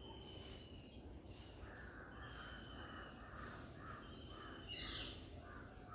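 Faint birdsong from several garden birds: short whistled notes repeating about once a second, and a quick run of harsher notes about two seconds in, over a steady high-pitched drone.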